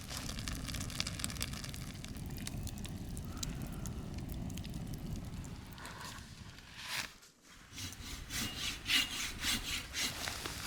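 Wood being sawn by hand, a steady rasping that stops about seven seconds in, followed by a run of sharp clicks and snaps.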